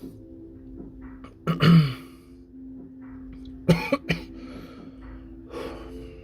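A person coughing while eating extremely spicy noodles: one loud cough about a second and a half in, then three short sharp coughs close together near four seconds.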